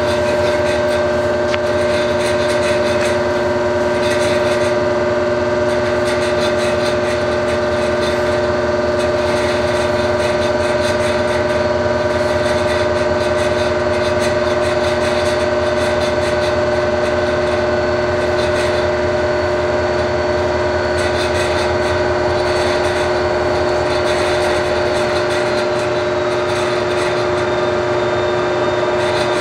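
Steady hum and whine of a train standing at a station, with several constant whining tones over a low rumble.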